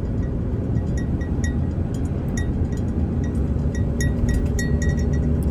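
Road noise inside a moving car: a steady low rumble of tyres and engine, with faint, irregular light ticks.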